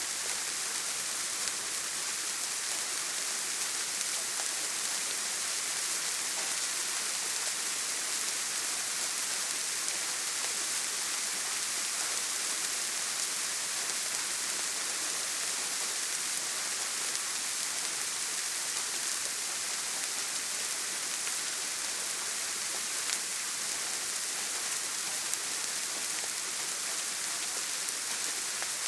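Heavy rain falling steadily: a dense, even hiss with a few faint single drop ticks.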